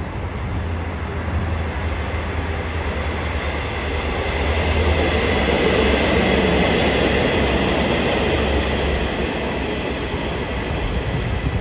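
Electric passenger train passing along the tracks: a steady rumble of wheels on rail that swells to its loudest about halfway through, with a thin high ringing above it.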